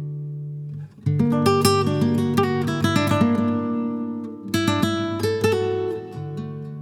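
Background music: acoustic guitar strummed and picked in repeated rhythmic chords, with a short break about a second in.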